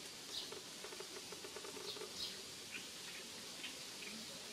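Faint, short high chirps of small birds in the trees, repeating every half second to a second. A soft run of rapid ticking sits under them in the first couple of seconds.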